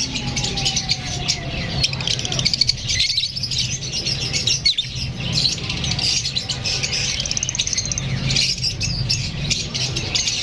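Several opaline lovebirds chirping and squawking, many short high calls overlapping without a break, over a low steady hum.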